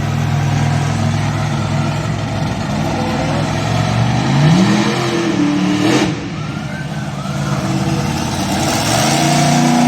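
Monster truck engine running, revving up about four seconds in, with a sharp bang about six seconds in, then revving up again near the end.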